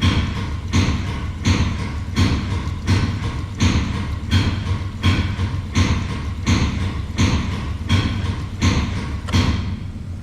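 Shop bulk-oil dispensing pump stroking while fresh engine oil is metered into the car, a regular knock about every 0.7 s over a steady hum. The strokes stop just before the end.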